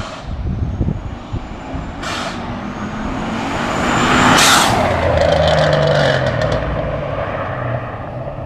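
Turbocharged 2010 Chevrolet Camaro SS 6.2-litre V8 running with a Turbonetics turbo kit: a faint turbo whistle rises slowly, broken by three short hissing rushes from the blow-off valve venting, the loudest about four and a half seconds in. The engine then runs on steadily and fades near the end.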